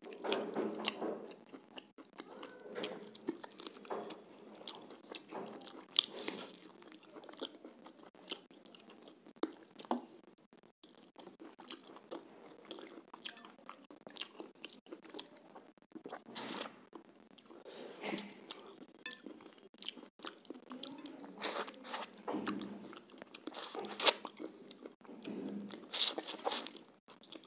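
Close-up chewing and crunching as a man eats chicken curry and roti with his fingers, with irregular sharp mouth smacks and clicks.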